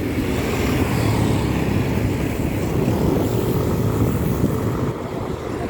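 Wind rumbling on the microphone of a moving bicycle, with road traffic engines running alongside.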